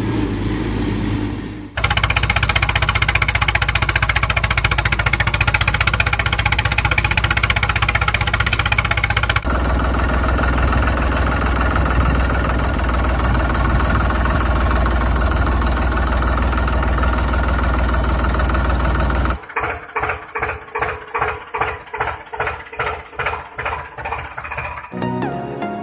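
Vehicle engine running in several abruptly cut stretches, steady at first, then a slow rhythmic chugging of about three to four beats a second. Music comes in near the end.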